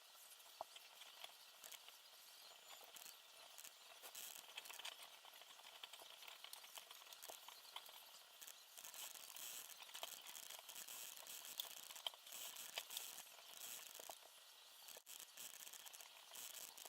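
Faint, irregular light clicks and rustling from small parts being handled.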